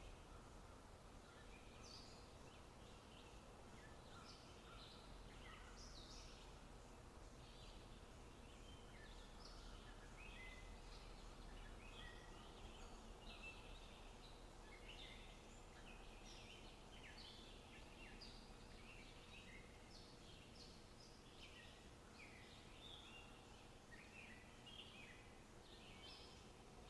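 Many birds chirping and calling, faint and overlapping, over a low steady background hiss.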